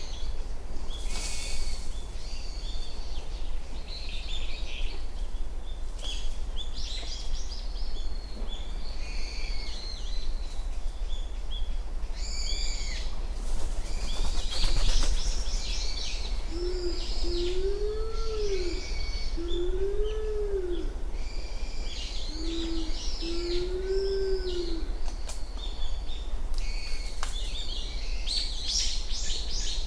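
Small wild birds chirping and calling throughout. In the middle, a dove gives a low cooing phrase of four drawn-out notes, each rising and falling.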